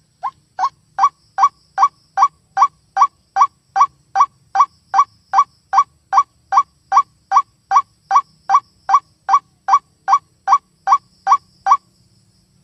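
White-breasted waterhen calling a long, even series of short single notes, about two and a half a second, each note rising slightly in pitch. The notes grow louder over the first second and stop shortly before the end.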